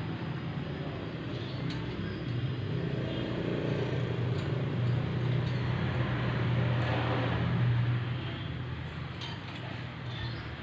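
A steady low engine drone, like a motor vehicle running close by, swelling slightly about two-thirds of the way through, with a few faint high ticks over it.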